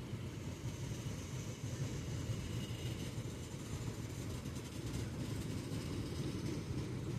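Steady low rumble of idling diesel engines, even and unchanging.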